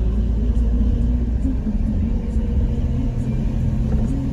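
Steady low rumble of a car on the move, with a faint steady engine hum.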